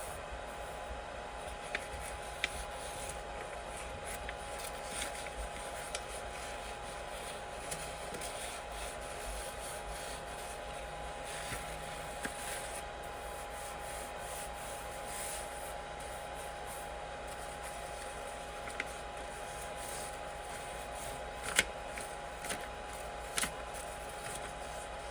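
3D printer running: a steady whine with an even hiss and a few sharp light clicks.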